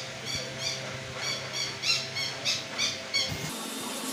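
A bird calling repeatedly in short, high chirps, about three a second, over a steady low hum. The calls stop abruptly about three and a half seconds in.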